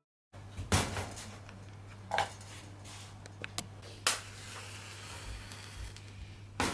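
Dishes and cooking utensils clinking and knocking, four or five separate clatters over a steady low hum.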